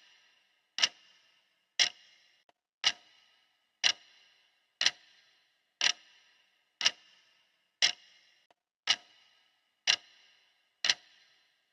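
Classic clock ticking sound: sharp, even ticks once a second, each with a brief ringing tail, the beat of a countdown timer.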